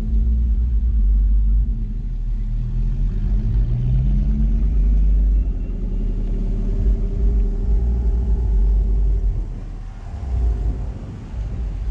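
Car engine and exhaust with a heavy low rumble as a car drives off, its pitch rising as it accelerates, then easing near the end.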